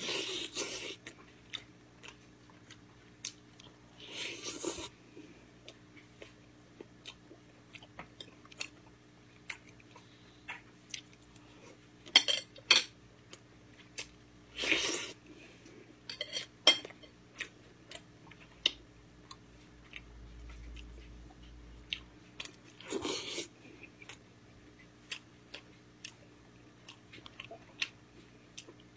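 Close-miked mukbang eating: wet chewing and biting of pork meat pulled off gamjatang neck bones, in several longer noisy bouts with many sharp clicks between, two of them loud about twelve seconds in. A steady low hum runs underneath.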